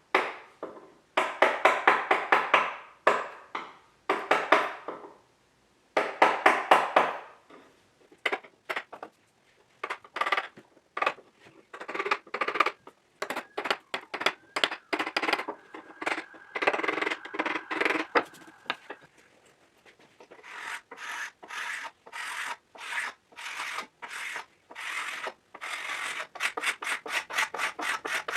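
Rapid back-and-forth hand strokes rubbing across the wooden top of an antique workbench, in bursts separated by short pauses, as the top is cleaned up and flattened.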